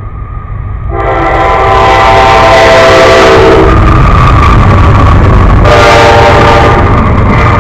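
Locomotive horn blowing loud and close, one long blast of about three seconds and then a shorter one, over the steady low rumble of the passing train.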